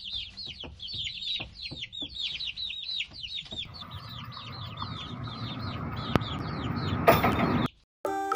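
Baby chicks peeping in a rapid, steady stream of high, falling peeps. From about halfway a rough rumbling noise joins in underneath and grows louder. Everything cuts off abruptly near the end, and music starts.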